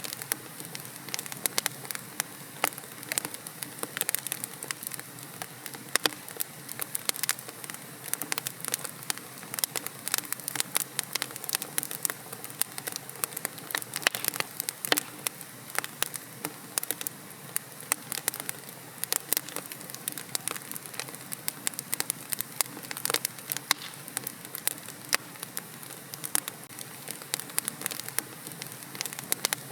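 Wood logs burning in a fireplace: a steady low hiss of flame with frequent sharp, irregular crackles and pops.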